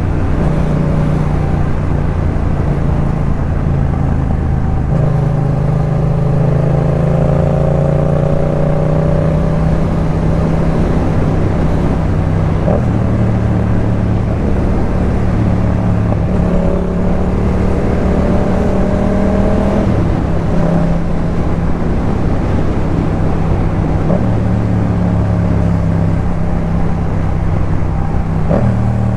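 Yamaha MT-07's parallel-twin engine running through a Jeskap K4 full exhaust while riding. The engine's pitch shifts up and down in steps several times.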